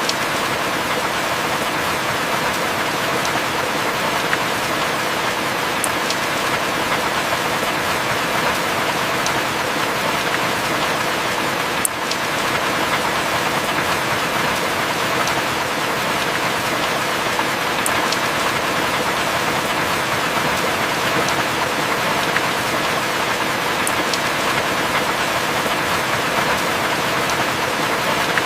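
Heavy rain falling steadily, a dense even hiss with a few faint drop ticks scattered through it.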